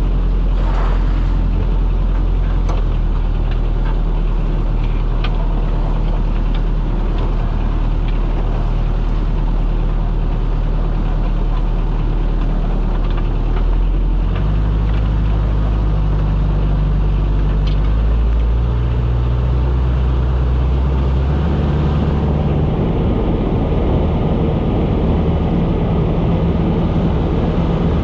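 Small motorboat's engine running under way, a steady drone that changes pitch a few times as the throttle is adjusted, over wind and water rush.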